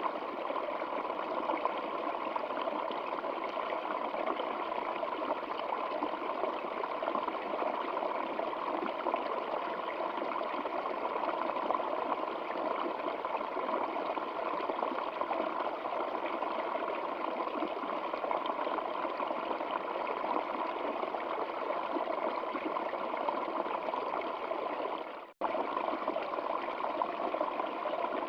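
Stream water running steadily, an even rushing babble. Near the end it drops out abruptly for a split second and then resumes.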